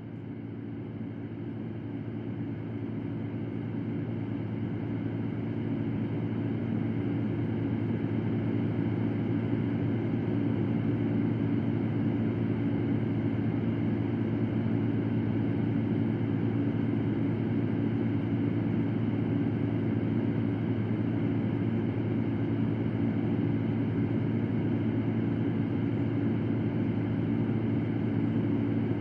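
Electric fan running steadily, a continuous whooshing drone with a low hum under it. It swells up over the first few seconds, then holds level.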